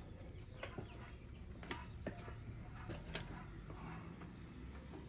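Scattered light clicks and clinks of hand tools and small engine parts as the fuel line and carburetor come off a Briggs and Stratton mower engine, with a low steady hum underneath.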